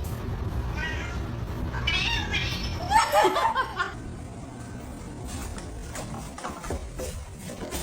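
Cat meowing: a few short calls, then a louder drawn-out call about three seconds in.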